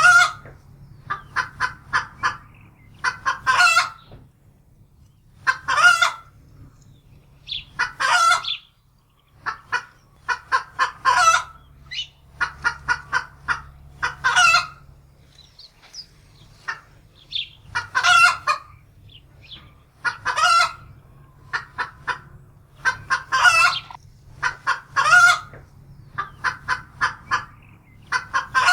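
Domestic hen cackling in alarm: runs of quick clucks, each ending in a louder drawn-out squawk, repeating every two to three seconds. It is the cackle of a frightened hen.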